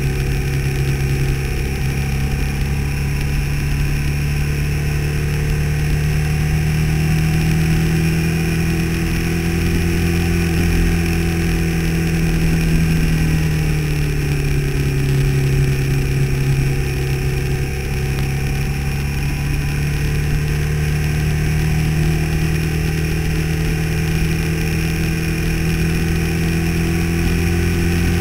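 Motorcycle engine running steadily under way on a winding road, its pitch sagging around the middle as it slows for a curve and climbing again as it picks up speed.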